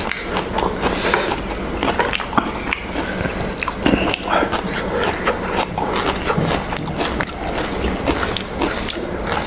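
Two people chewing and biting food close to the microphone, a dense run of small mouth clicks and smacks.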